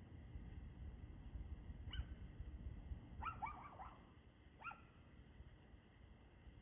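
A dog barking faintly: a single bark, then a quick run of about four barks, then one more.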